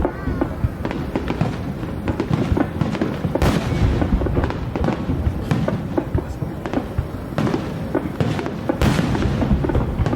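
Aerial fireworks bursting in a rapid, continuous barrage of booms and crackles, with two bigger bursts about three and a half seconds in and near the end.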